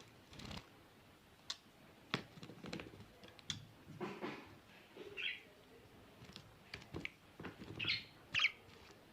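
Budgerigar giving a few short chirps, two of them close together near the end, among small sharp clicks and scratchy rustling.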